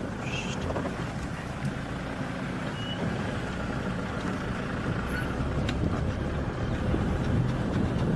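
A vehicle's engine running steadily, a low rumble.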